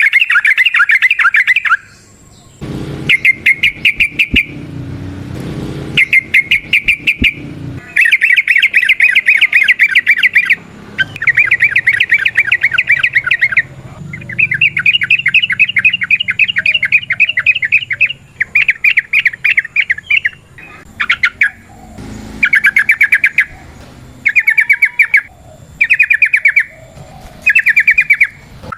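Yellow-vented bulbul (trucukan) singing its fast, rolling 'ropel' song: loud bursts of rapid repeated notes, each burst lasting one to three seconds, separated by short pauses.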